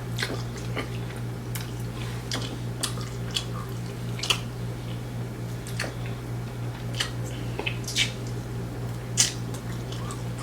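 Close-miked mouth sounds of someone eating fried wings and fish: wet chewing and irregular sharp lip smacks, over a steady low hum.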